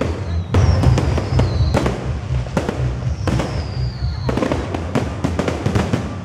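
Fireworks display: many sharp bangs and crackles of bursting shells in quick succession, with high whistles that slide down in pitch between them.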